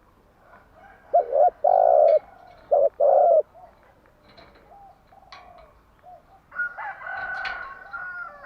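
Spotted dove cooing: a phrase of four loud coos in quick succession about a second in, then a longer, busier stretch of overlapping calls near the end, with faint chirps between.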